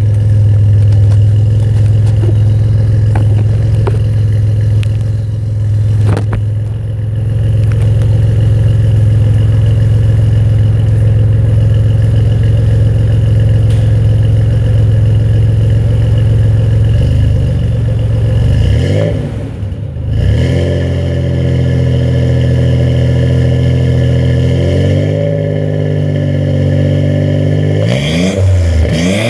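1985 Nissan 300ZX Turbo's V6 running through a 2.5-inch turbo-back exhaust with a single-chamber muffler, idling steadily. It is revved quickly once about two-thirds of the way through, settles back to idle, and is revved again near the end.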